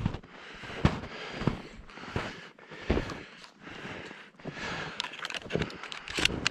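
Footsteps crunching and brush crackling as a person walks through woods, a sharp step or snap about every two thirds of a second.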